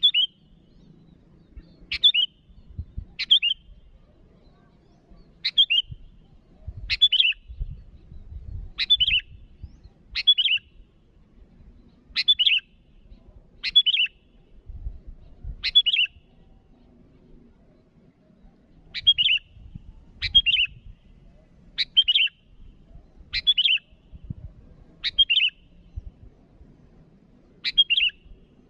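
Sooty-headed bulbul (kutilang) calling: short, sharp, repeated notes about every one to two seconds, with one pause of a few seconds past the middle.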